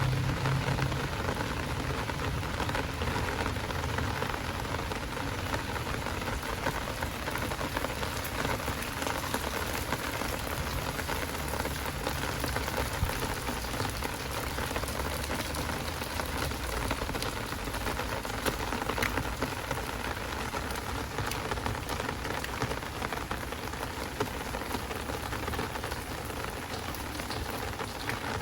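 Heavy rain falling steadily, a dense patter of drops. A low vehicle engine rumble fades away in the first second or two.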